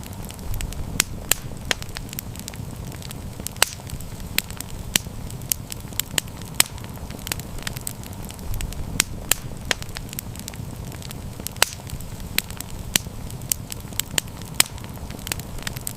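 Wood campfire burning, with frequent sharp irregular crackles and pops over a steady low rumble of flame.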